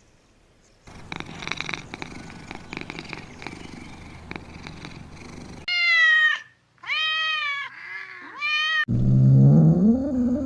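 A cat purring for several seconds, then meowing three times in high, arching calls. A louder, lower-pitched animal call begins near the end.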